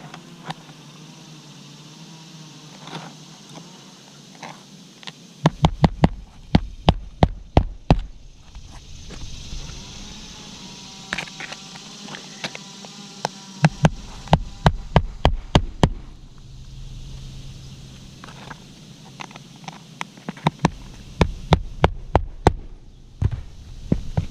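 Hammer driving roofing nails into asphalt shingles: three runs of quick, sharp blows, several a second, each run lasting two to three seconds, the first starting about five seconds in.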